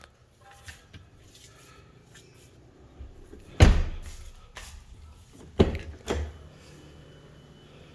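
Car doors being shut: one loud thump about halfway through, then two more close together near the end.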